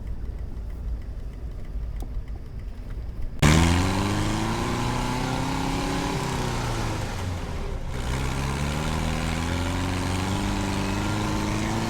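Low, steady road rumble of a moving vehicle for the first few seconds, then an abrupt change to a louder engine whose pitch rises, drops and climbs again, as with a vehicle accelerating through a gear change.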